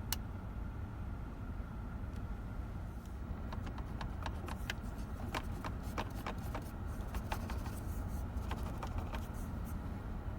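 Steady low rumble of a car cabin, with a run of light clicks and taps through the middle.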